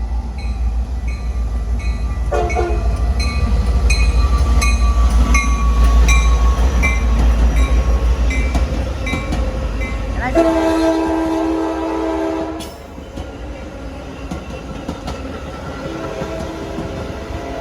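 A train passing close by with a heavy low rumble, over which a bell dings steadily about twice a second. The train's horn gives a short chord about two seconds in, then a loud multi-note blast of about two seconds about ten seconds in, and sounds more faintly near the end.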